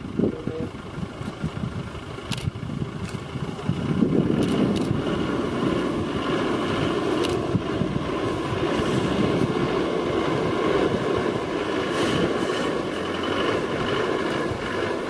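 Engine of a safari vehicle running steadily, with a few short sharp clicks scattered through.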